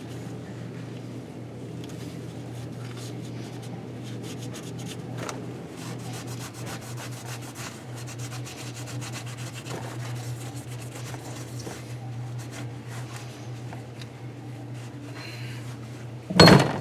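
Steady rubbing and scrubbing over a constant low hum, with a sudden loud burst near the end.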